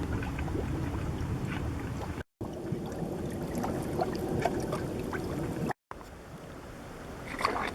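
Mud pots bubbling with carbon dioxide rising through the water and mud: gurgling with scattered small pops over a steady low rumble, broken by two brief silent gaps. A louder rustling scrape comes near the end.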